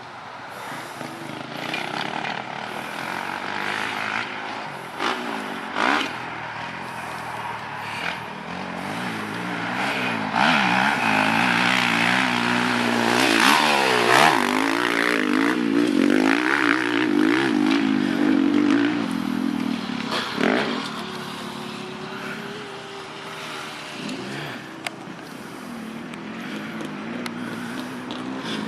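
Four-stroke motocross bike engine revving up and down in quick surges as it rides the track. It grows louder to a peak about halfway through, then drops back.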